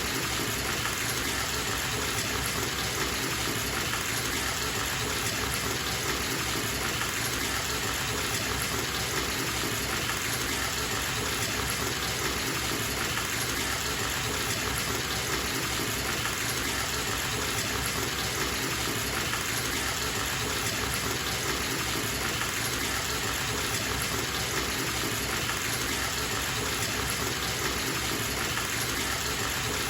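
Water running steadily from a bathtub tap into the tub as it fills, an even, unbroken rush.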